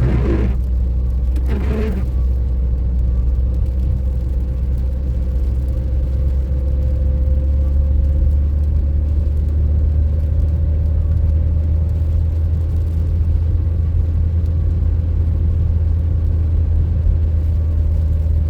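A car driving, its engine and road noise making a steady, loud low rumble with a faint steady hum above it.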